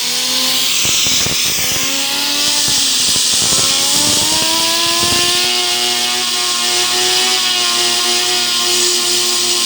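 A jet of compressed air from an air compressor hissing loudly as it drives a fidget spinner, whose whine rises in pitch over the first few seconds and then holds steady at speed. A few short knocks sound in the first half.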